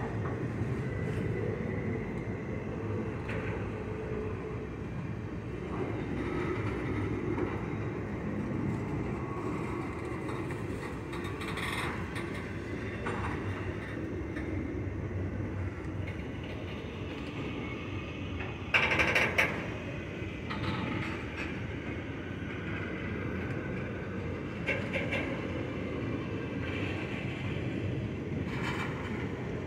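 Loaded rail-train flatcars rolling slowly past with a steady rumble of wheels on track. A few brief sharp metallic sounds come from the cars, the loudest about two-thirds of the way through.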